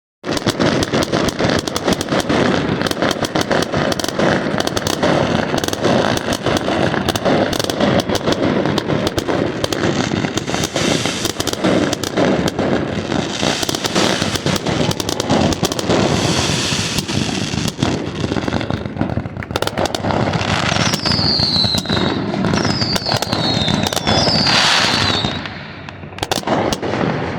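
Fireworks going off in a dense, continuous barrage of rapid bangs and crackling. Past the middle, three short whistles fall in pitch one after another, and the barrage thins out near the end.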